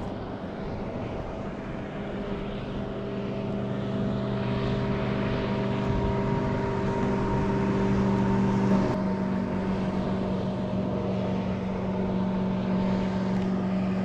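Motorboat engine running steadily, growing louder over the first several seconds, its pitch shifting about nine seconds in.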